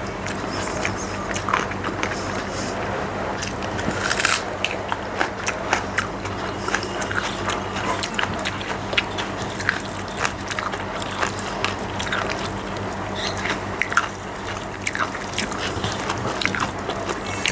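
Close-up eating sounds of rice and egg omelette being chewed, with many small wet mouth clicks, and fingers mixing the food on a metal plate. A steady low hum runs underneath.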